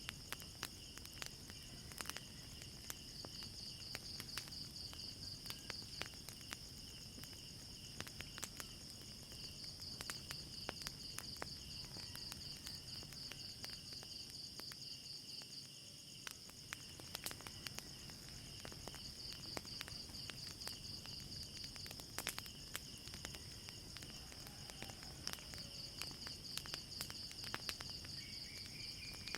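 Crickets chirping in a steady pulsing chorus, with the scattered sharp pops and crackles of a burning wood fire throughout.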